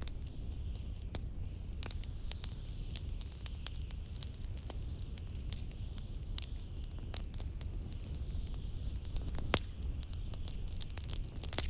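Wood fire crackling with frequent sharp pops, over a steady low rumble of blizzard wind. Twice a pop is followed by a short rising whistle, the loudest pop coming near the end.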